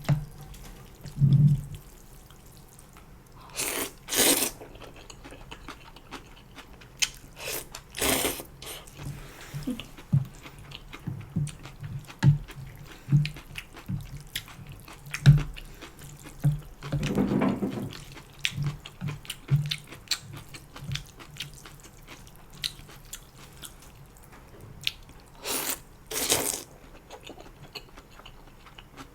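A person slurping janchi guksu wheat noodles in broth: several loud wet sucking slurps, two close together about 4 seconds in, one near 8 seconds, a lower one midway and a pair near the end. Between them come soft, quick chewing clicks.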